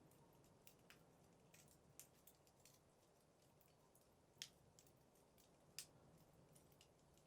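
Faint crackling of burning wood in a fireplace: scattered small pops and snaps, with two sharper pops a little past the middle, about a second and a half apart.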